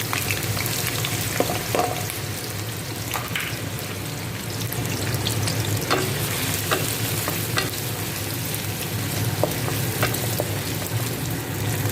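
Sliced sausage sizzling in hot cooking oil in a wok, a steady hiss with scattered sharp clicks and scrapes from the spatula stirring it against the pan.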